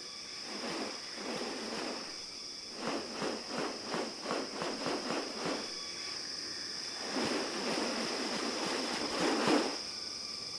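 Rainforest ambience: a steady high-pitched insect drone with fainter steady tones beneath it, broken by a run of quick rustling strokes of about four a second and, later, a longer rustling swell.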